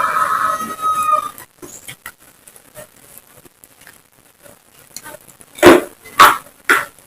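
Close-up eating sounds: quiet smacking, then three loud crisp crunches about two-thirds of the way in as raw vegetables and jengkol are bitten and chewed. A chicken's drawn-out call carries on at the start and stops about a second in.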